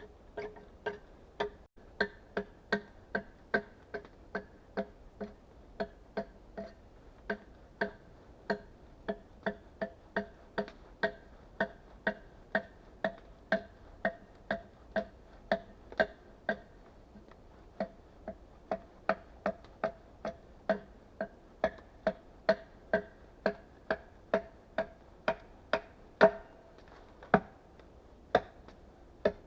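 A tool striking wood again and again, about two blows a second, each giving a short ringing knock. The strikes break off briefly a little past halfway, and the hardest blow comes near the end.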